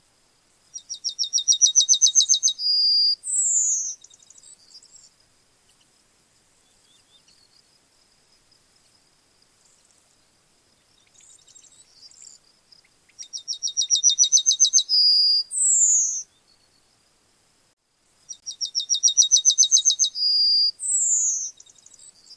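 Yellowhammer singing three times, the classic 'little bit of bread and no cheese' song. Each song is a fast run of repeated high notes that grows louder, ending in a held note and then a falling slurred note.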